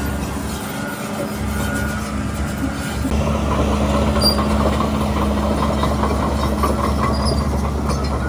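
Shantui DH17C3 crawler bulldozer running, its diesel engine droning steadily and getting louder about three seconds in, with a rapid squeaky clatter of the steel tracks as it moves.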